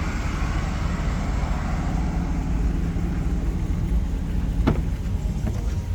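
Vehicle engine idling with a steady low rumble, with a single short click about four and a half seconds in.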